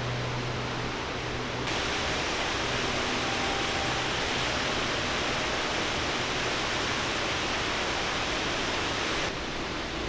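Steady rushing of a waterfall's falling water. It gets louder and brighter about two seconds in and drops back down near the end.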